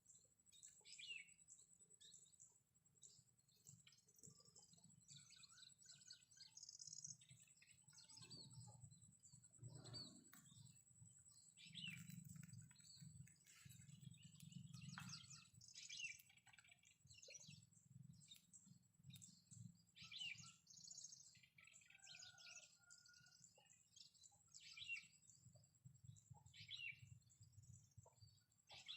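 Faint wild birds chirping, many short calls one after another, over a low rumble, with a thin steady high-pitched tone behind them.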